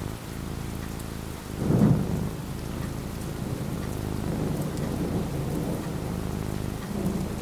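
Steady rain falling, with a roll of thunder that swells loudest about two seconds in and rumbles on more quietly afterwards.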